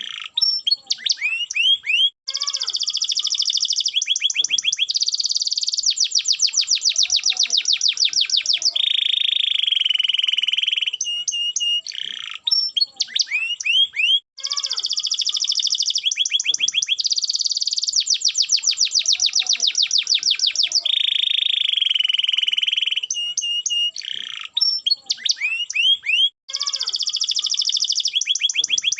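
Domestic canary singing without pause: rapid trills and rolls, a held whistled note, and quick rising sweeps, with the same run of phrases repeating about every twelve seconds.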